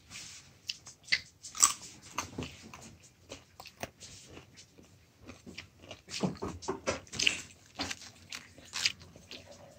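Close crunching and chewing of crisp food, with irregular sharp crunches. They come thickest about two seconds in and again from about six seconds in.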